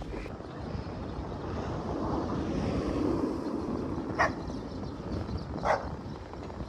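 A dog barks twice in the second half, single short barks about a second and a half apart, over steady wind noise on the microphone.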